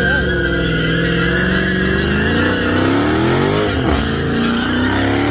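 Muscle car V8 accelerating hard at full throttle. The engine pitch climbs, drops briefly with a gear change about four seconds in, then climbs again, with a steady high whine over the top.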